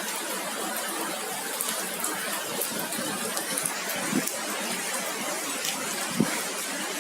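Heavy rain falling with hail: a steady hiss of rain, with scattered sharp ticks of hailstones striking and a single louder knock about six seconds in.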